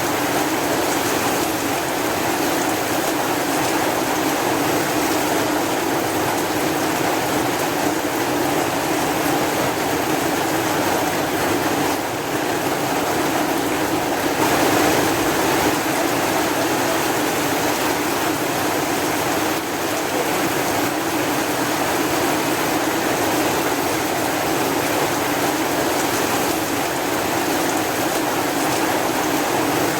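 Steady heavy rain falling: an even, continuous hiss of rainfall, with a slight swell about halfway through.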